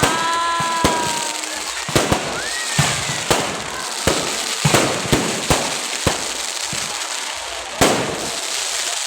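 Fireworks display: a string of sharp bangs at irregular intervals, over one to two a second, over a steady crackle, with the loudest bang near the end. A held tone, falling slightly in pitch, sounds near the start.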